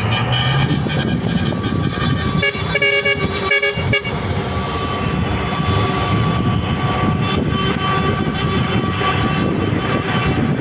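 Truck horns sounding over idling truck engines: a choppy cluster of horn blasts, then one horn tone held steadily from about four seconds in.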